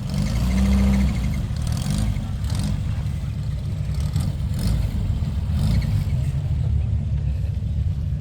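A car engine running with a steady low rumble, briefly louder with a held tone about a second in.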